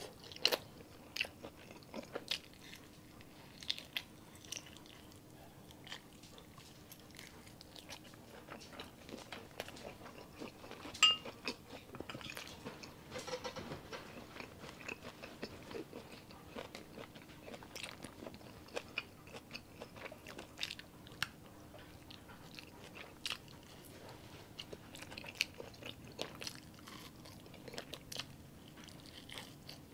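Close-miked eating sounds of grilled skewered street food (ihaw-ihaw) being bitten and chewed: wet chewing with sharp clicks and crunches spread irregularly throughout. A single ringing clink sounds about eleven seconds in.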